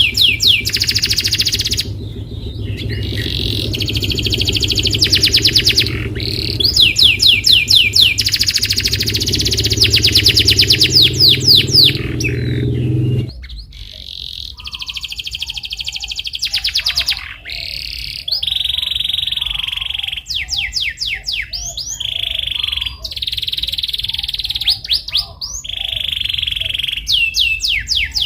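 Domestic canary singing: fast trills of rapidly repeated sweeping notes alternating with held, rolling whistled notes. A steady low hum runs underneath and cuts off about halfway through.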